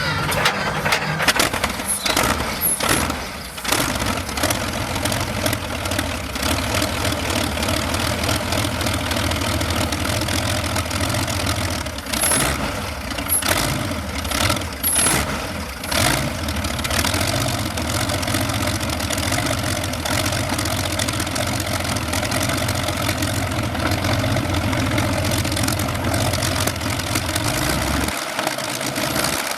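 Continental AVI-1790-8 29.4-litre V12 tank engine running at low speed in a pulling tractor, a steady deep hum broken by a few sharp cracks in the first few seconds and again around the middle.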